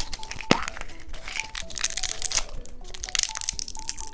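Wrapper crinkling and plastic cracking as a surprise egg is opened, with one sharp snap about half a second in, over soft background music.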